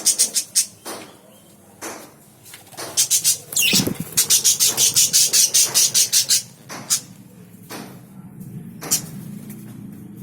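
Budgerigars chirping in quick runs of short, sharp high calls, about six a second, with one call gliding downward in pitch near the start of the longest run.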